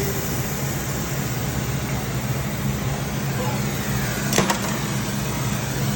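Torch flame hissing steadily while heat is put on a rusted, broken exhaust-manifold stud to free it, over a low steady hum. One sharp click about four seconds in.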